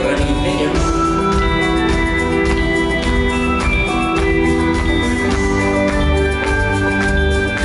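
Live rock band playing an instrumental passage: guitar and keyboards over bass and a steady drum beat, with no singing.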